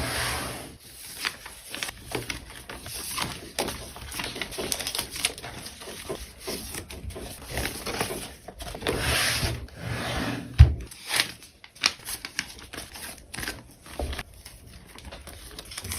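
Hands packing small orders: plastic and paper packaging rustling and crinkling, with many quick clicks and taps as items are handled. There is a single heavier thump about ten and a half seconds in.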